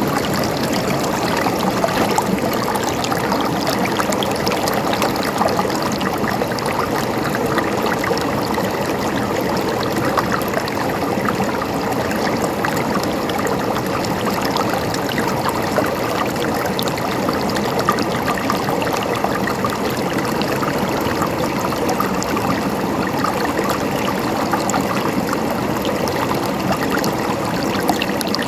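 Mountain stream flowing steadily, with many small splashes and trickles over a constant rush of water.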